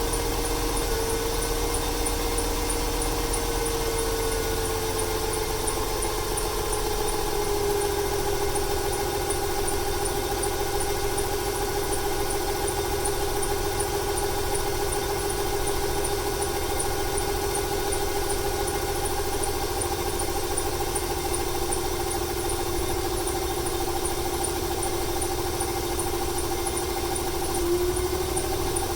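Ford 300 cubic-inch (4.9 L) straight-six with over 400,000 miles idling steadily, a whine in the sound sliding a little lower in pitch over the first several seconds and then holding. The engine is misfiring, a stutter the owner suspects comes from a fuel or timing issue.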